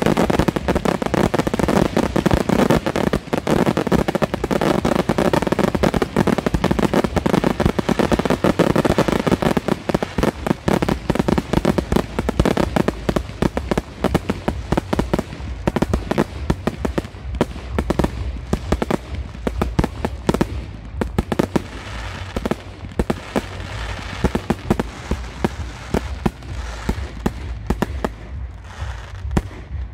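Fireworks display: a dense barrage of bangs and crackling over a low rumble, thinning out to sparser pops in the second half.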